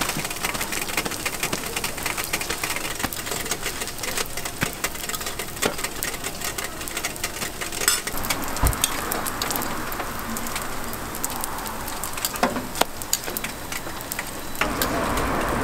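Hotteok frying in oil on a flat steel griddle: a steady sizzle with fine crackling throughout. A few sharper metal clicks and a knock from the press and tongs on the griddle.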